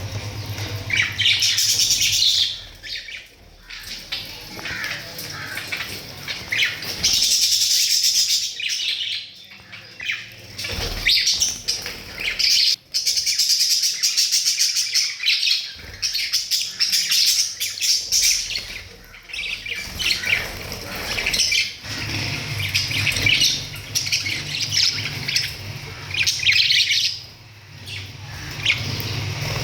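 Parrots calling over and over with high-pitched chirps and squawks.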